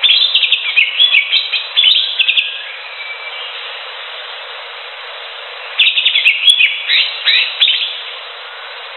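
Greater green leafbird (cucak hijau) singing: two bursts of quick, varied whistled and chattering notes, the first at the start and the second about six seconds in, with a steady hiss between them.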